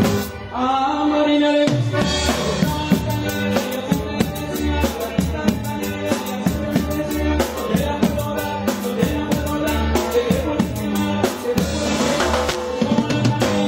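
Norteño band playing live, with a drum kit keeping a steady beat under sustained melodic instrument lines.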